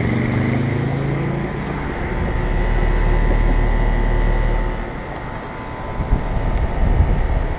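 Road traffic going past: a vehicle's engine note falls in pitch as it drives by in the first second or so, then a heavier low rumble of passing traffic that fades away about five seconds in. A few short knocks near the end.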